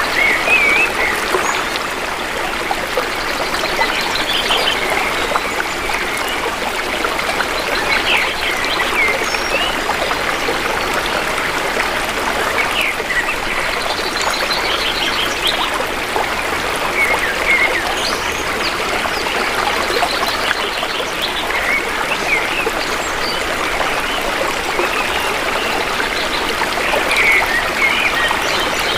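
Shallow stream burbling steadily over rocks, with short bird chirps and trills breaking in every few seconds.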